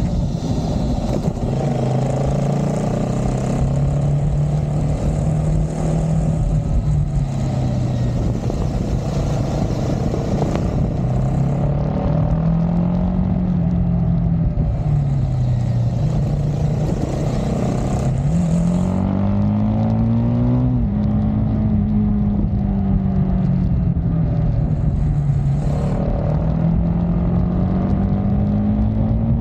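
Triumph Speed 400's single-cylinder engine and exhaust heard from the moving motorcycle, the engine note climbing and easing off repeatedly as the bike rides through traffic, with a sharp drop in pitch about two-thirds of the way through and again near the end, as at an upshift. A steady rush of wind noise runs underneath.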